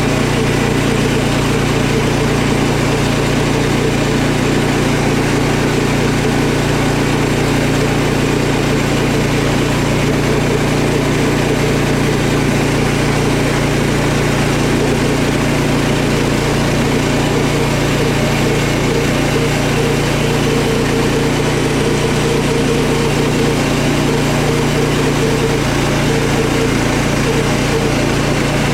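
Sawmill engine running steadily at a constant speed, with no change in pitch or level.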